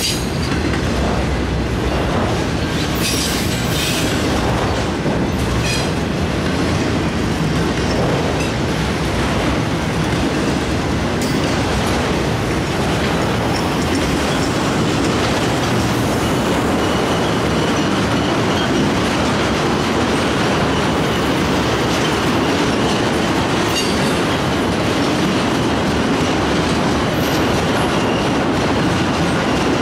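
Freight train cars rolling past at close range: a steady rumble of steel wheels on rail, as autorack cars give way to flatcars loaded with truck frames. A few sharp clanks come in the first several seconds, and a faint high wheel squeal runs through the middle.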